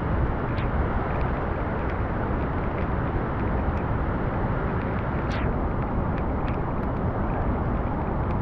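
Steady rushing roar of falling water from a waterfall, unbroken and even, with a few faint clicks and a short high falling squeak about five seconds in.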